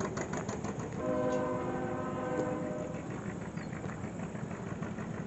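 A whistle sounds a steady chord of several notes together for about two seconds, starting about a second in, with a faint rapid clicking just before it.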